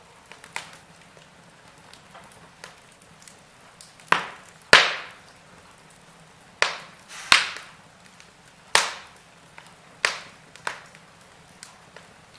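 Burning firewood crackling: a faint steady hiss with scattered small ticks, and a run of about seven loud sharp pops in the middle, each snapping and then quickly fading.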